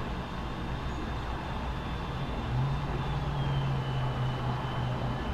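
A steady low hum from the vibration tone driving lycopodium powder on a vibrating plate, coming in about two and a half seconds in over a steady hiss, as the powder shifts from a still figure into a flowing phase. A faint high whine drops slightly in pitch about midway.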